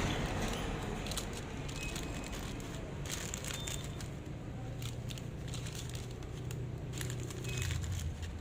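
Steady low hum under scattered light clicks and crinkling handling noises.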